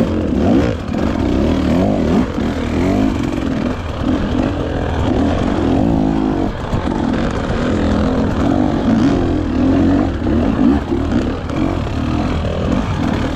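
Dirt bike engine revving up and down over and over, its pitch rising and falling with the throttle as it is ridden.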